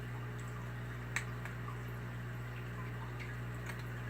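Aquarium filter equipment running with a steady low electrical hum, with faint scattered drips and small bubbling ticks of water and one sharper click about a second in.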